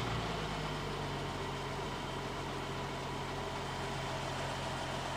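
Jeep Wrangler's engine running at low, steady revs as it crawls past at close range.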